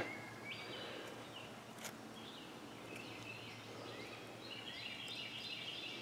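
Faint outdoor ambience with distant birds chirping, short calls scattered throughout, and one faint click about two seconds in.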